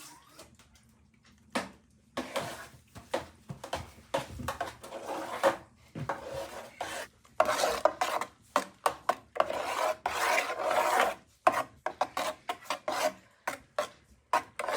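Repeated rasping scrape strokes on a hard surface, uneven in pace and loudness, starting about a second and a half in.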